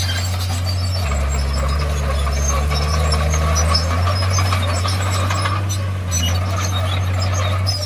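Bulldozer's diesel engine running steadily. Its note drops about a second in and climbs back over the next three seconds, with light rattling throughout.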